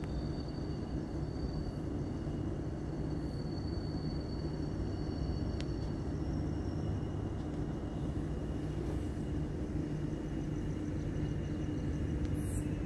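Steady low diesel hum of a Vietnamese passenger train idling while it stands still, with faint steady high-pitched whines above it.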